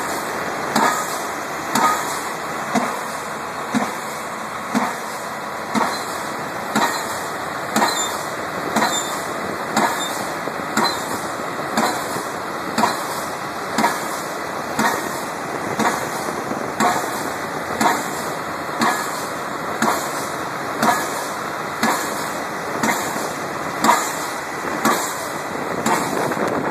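An 010 pile-driving hammer striking a pile about once a second in a steady rhythm, each blow a sharp bang, over a constant machinery noise.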